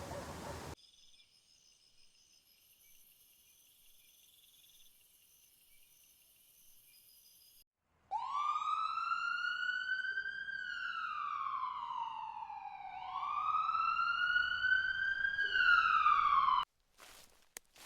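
Siren wailing, sweeping slowly up and down in pitch twice, then cutting off suddenly. Before it there are only faint high steady tones.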